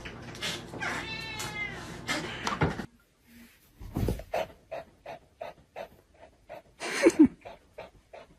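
A cat meowing, with one drawn-out meow about a second in. After about three seconds comes a run of short, evenly spaced sounds, about three a second.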